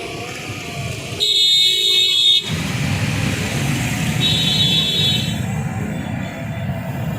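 Two horn blasts: a loud one lasting just over a second about a second in, and a shorter, weaker one about four seconds in. Both sound over a steady low rumble of heavy vehicles at the level crossing.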